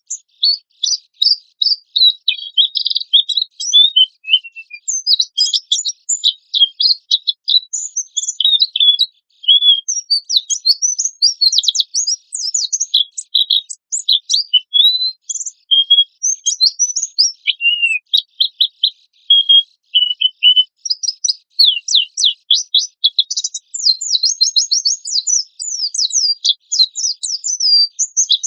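White-eye (pleci) singing a fast, continuous song of sharp, high chirps and quick trills, almost without pause.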